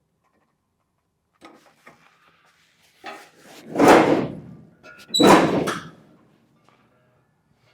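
Two loud, rattling thuds, a little over a second apart, as the sheet-metal cab body is shifted and set down onto the truck frame. A few faint knocks come before them.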